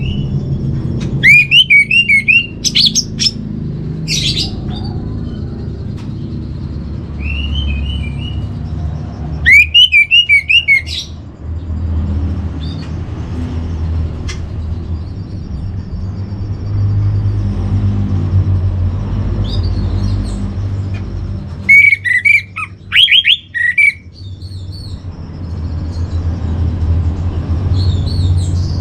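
Orange-headed thrush singing in short bursts of rapid, varied whistled phrases with long pauses between them, over a steady low hum.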